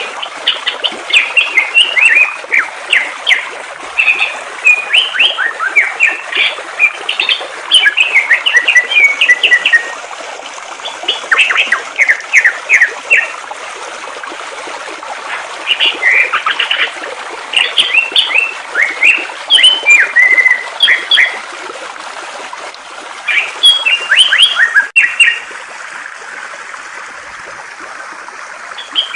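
A songbird singing in quick bursts of chirps and whistled notes, broken by short pauses, over the steady rush of flowing water. About 25 s in there is a single sharp click and the water sound changes, like a join between recordings.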